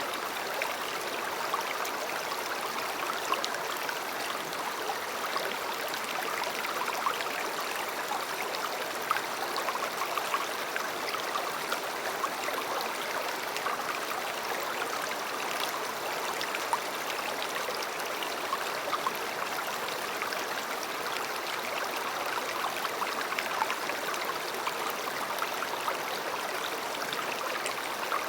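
River water flowing over rocks: a steady rushing babble with small splashes and gurgles throughout.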